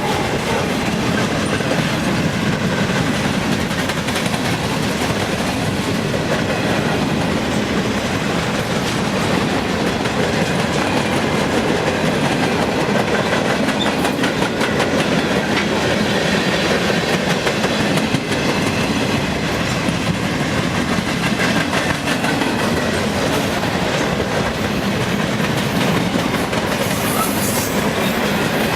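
Train cars rolling past close by, steel wheels clicking and clattering over rail joints in a steady, loud rumble.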